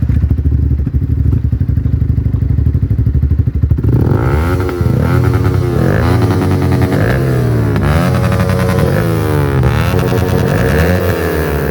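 Yamaha R15 V4's single-cylinder engine through a modified aftermarket exhaust, running at a steady pulsing idle for about four seconds, then revving, its note rising and falling over and over.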